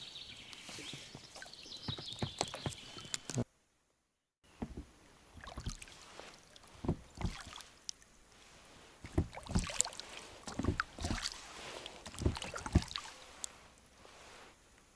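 Scattered knocks, clicks and rustles of gear being handled in a small boat while a caught pike is being unhooked. The sound cuts out completely for about a second a few seconds in.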